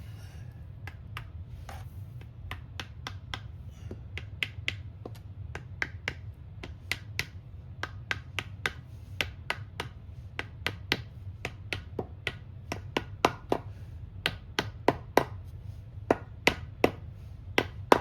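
Light, sharp taps on metal in a steady rhythm of about two a second, getting louder in the second half, as from a small hammer tapping a transmission part.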